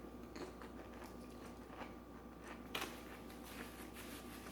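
Faint eating sounds: chewing with small scattered clicks, and one sharper click nearly three seconds in.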